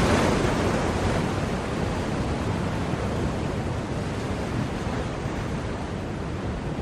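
Ocean waves on a shore: a steady wash of surf that slowly eases after one wave, with the next wave swelling in just at the end.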